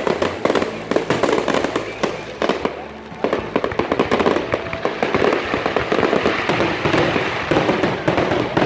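Aerial fireworks going off in rapid, dense volleys of bangs and crackles, with a brief lull about three seconds in before the barrage picks up again.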